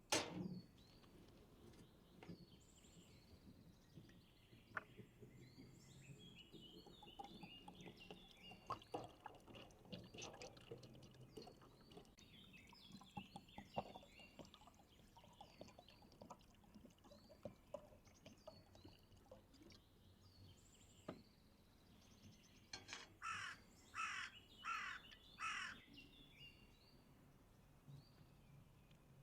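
Outdoor ambience of small birds chirping, with scattered light clicks and knocks, and a series of four loud bird calls in quick succession near the end.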